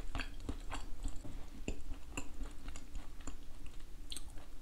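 A person chewing a mouthful of smoked canned oysters close to the microphone, with irregular short mouth clicks.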